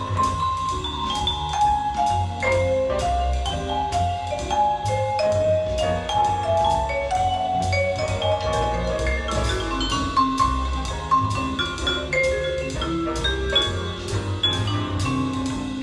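Instrumental jazz-style track with drums, bass and a mallet-percussion melody, played through a small hi-fi bookshelf loudspeaker and recorded in the room.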